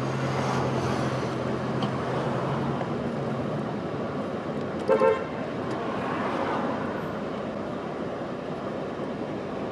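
Steady street traffic noise, with a car horn tooting twice in quick succession about five seconds in.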